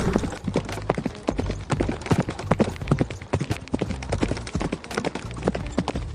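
Zebra hooves clattering on hard ground: many quick, irregular hoofbeats.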